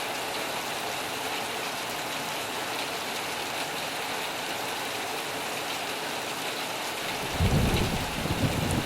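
Heavy rain falling steadily on a metal roof. About seven seconds in, a low rumble of thunder starts and becomes the loudest sound.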